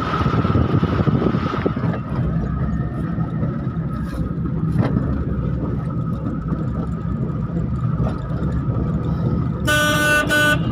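Car engine and road noise with a steady low rumble, and a car horn giving two short honks near the end.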